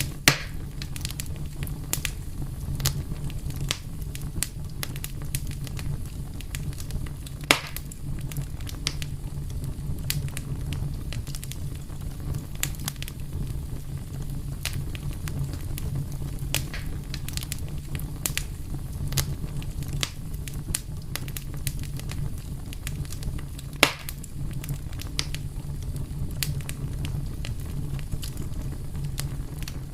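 Wood fire burning, with a steady low rumble of flames and constant crackling, and a few louder pops near the start, about a third of the way in and about four-fifths of the way through.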